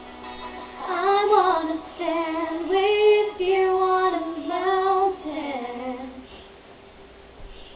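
A young female voice singing a few long, gliding notes over a pop backing track; the voice stops about six seconds in and the backing music carries on quietly.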